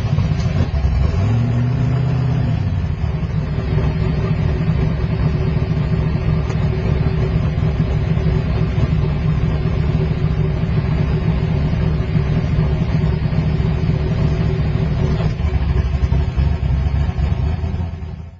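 Turbocharged Mustang drag car's engine running at low revs, a steady low rumble heard from inside the cabin, with a brief rise and fall in pitch about two seconds in. The sound cuts off suddenly at the end.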